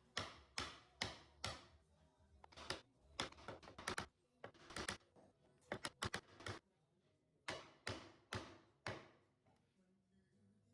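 A series of sharp wooden taps and knocks, irregular, about two a second, stopping about nine seconds in.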